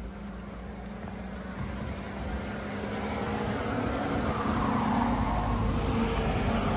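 Road traffic on a busy main road, with a vehicle approaching and passing close by. The sound grows steadily louder to a peak about five seconds in, over a steady low engine hum.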